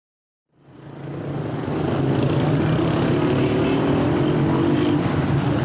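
Busy street ambience fading in from silence about half a second in, dominated by a steady hum of vehicle engines and traffic.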